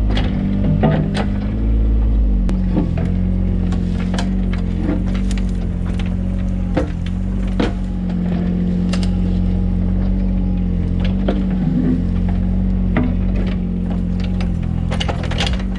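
Mini excavator's engine running steadily under load, its pitch shifting slightly about two seconds in, with irregular sharp clanks and knocks from the machine working as it digs.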